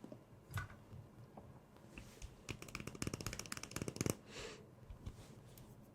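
Soft, close-up handling and scratching sounds of makeup tools, with a quick run of many small crisp clicks about three seconds in that lasts about a second.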